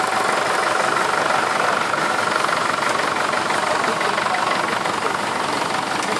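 An engine idling steadily close by, with a fast, even beat.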